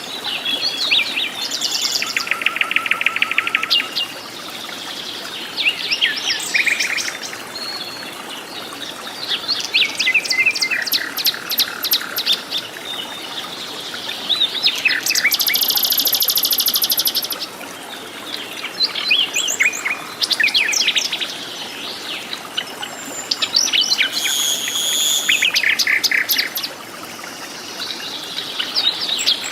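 Several jungle birds calling and singing over one another with no pause: rapid trills, chirps and short whistled notes, some high and buzzy.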